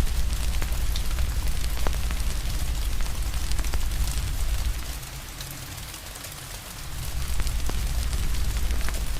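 Steady rain hiss mixed with a crackling fire, sharp pops scattered irregularly, over a deep low rumble that dips away for about two seconds midway.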